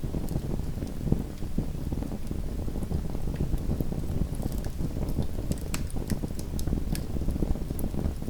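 Small wood fire burning in a home fireplace: a steady low rumble of flames with scattered sharp crackles and pops from the burning wood, more of them past the middle.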